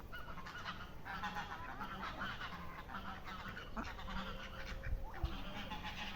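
A flock of fowl calling, many short calls overlapping, busiest in the first half.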